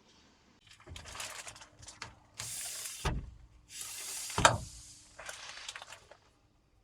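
Irregular mechanical rattling and scraping in several bursts, with two louder swooshes falling in pitch about three seconds and four and a half seconds in.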